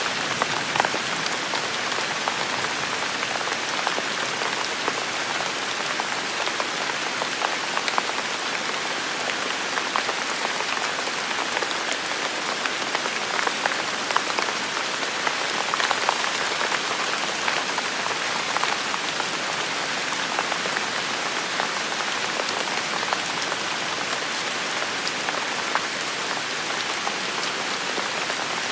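Heavy rain falling steadily, with the patter of many individual drops striking close surfaces.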